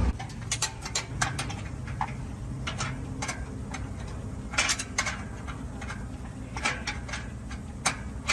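Irregular sharp metallic clicks and taps, as of hand tools being worked on engine parts, over a low steady hum.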